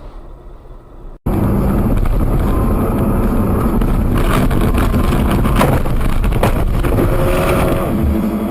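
Loud vehicle noise from a dashcam: engine and road rumble with some wind, starting abruptly about a second in, with scattered knocks through it.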